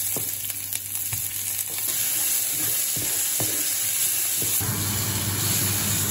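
Onions sizzling in a frying pan, stirred with a wooden spoon that knocks against the pan a few times. The sizzle grows louder about two seconds in as frozen pepper strips go into the hot pan, and louder again near the end as minced beef is added.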